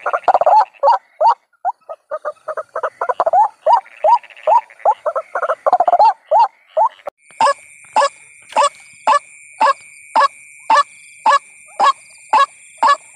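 White-breasted waterhen calling with harsh croaking notes: first a fast, jumbled run of calls, then from about halfway single calls repeated evenly about twice a second.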